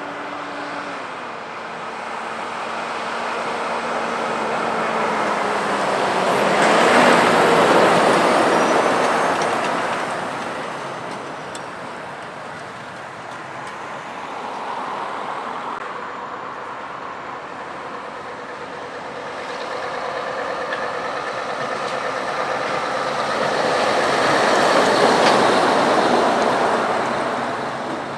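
Two heavy trucks driving past one after the other, the engine and tyre noise swelling and fading with each pass. The first is loudest about seven seconds in, the second near the end.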